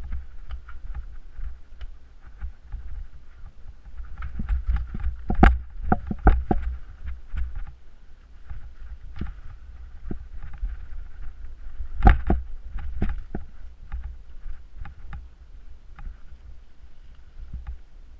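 Mountain bike rattling and knocking over a rough trail, with a steady low rumble on the microphone. Bursts of sharp knocks come about five seconds in and again about twelve seconds in.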